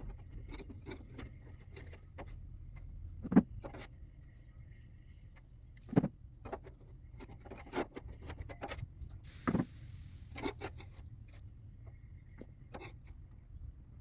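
Irregular metallic clinks, scrapes and knocks of hand tools cleaning around a hydraulic cylinder, with a few sharper knocks, over a low steady rumble.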